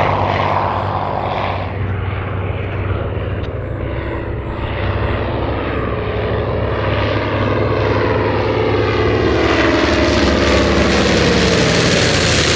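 WWII fighter's liquid-cooled V-12 piston engine and propeller running in flight. The drone dips a few seconds in, then grows louder and brighter toward the end as the aircraft comes closer.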